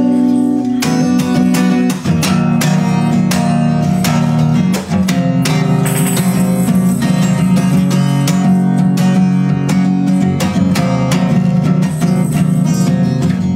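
Acoustic guitar played in an instrumental passage between sung verses, with strummed and picked chords.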